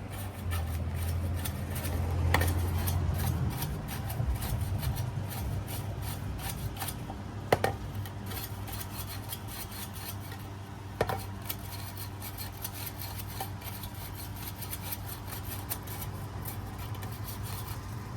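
A brush scrubbing built-up dirt off the blades of an HVAC blower wheel: rapid scratchy strokes, with two sharp knocks about seven and eleven seconds in.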